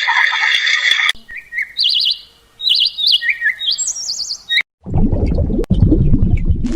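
A bird chirping in short, high, trilled phrases, repeated several times over a few seconds. The chirps follow the end of another pitched call that cuts off about a second in. A low rumbling noise starts near the end.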